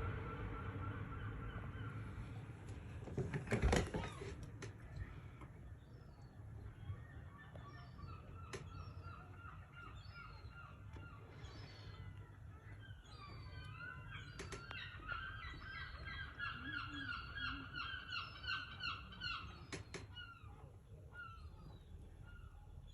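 A flock of birds calling in rapid, repeated honk-like notes, busiest in the second half, over a low steady rumble. A single loud knock sounds about four seconds in, with a few sharp clicks later.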